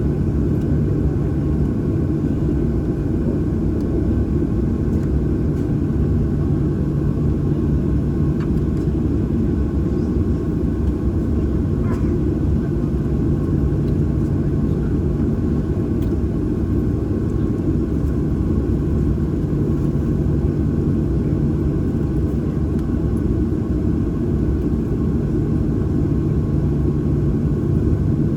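Inside the cabin of a Boeing 737-800, the CFM56-7B jet engines running at idle, with a steady low rumble and an even hum.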